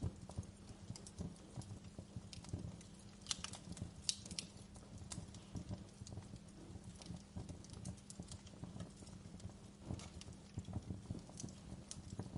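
Wood fire in a fireplace crackling, with irregular sharp pops and snaps, several of them louder, over a low steady rumble of the flames.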